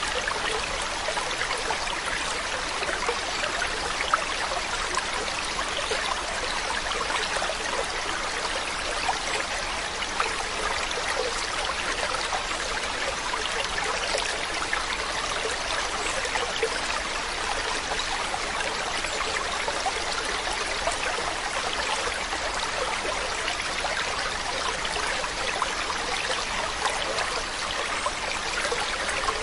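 Running water flowing and trickling steadily, like a small stream, with a dense patter of tiny splashes.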